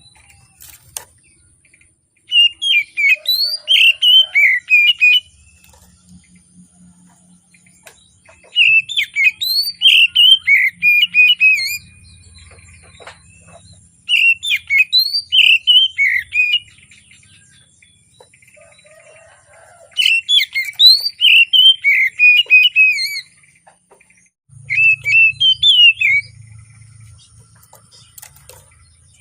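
Oriental magpie-robin singing in full song: loud, varied whistled phrases in five bursts of two to three seconds each, with short pauses between.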